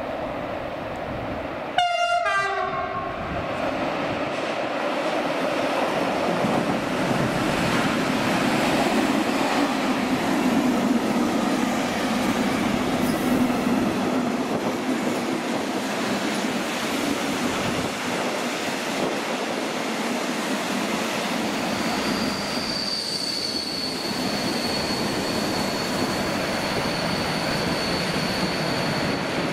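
Train giving a short horn blast about two seconds in, then passing by with the steady noise of its wheels on the rails. A high-pitched wheel squeal sets in near the end.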